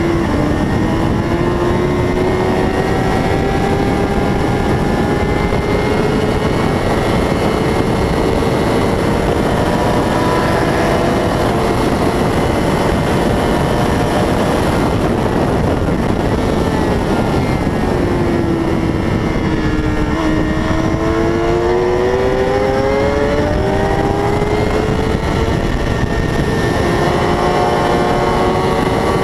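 600-class racing motorcycle engine running hard at high revs, its pitch climbing slowly through long pulls. About two-thirds of the way through it drops and swoops back up as the bike slows and accelerates, then steps through further changes, over a constant rush of noise.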